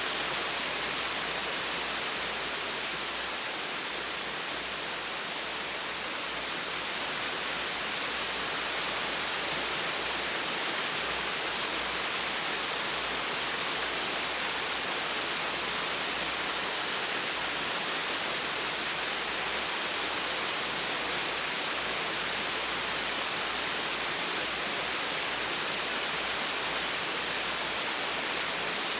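Small waterfall splashing steadily: an even rush of falling water.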